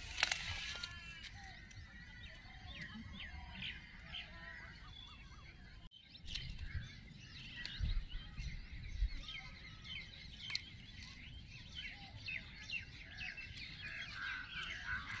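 Many small birds chirping and twittering, faint and continuous, over a low outdoor rumble, with a brief dropout about six seconds in.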